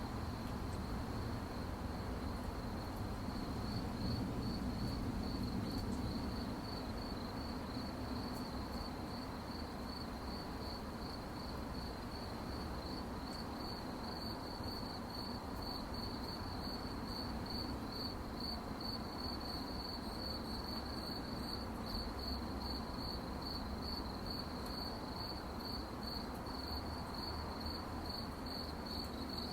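Crickets chirping at night, a steady run of evenly spaced high chirps on one note, over a faint low background hiss.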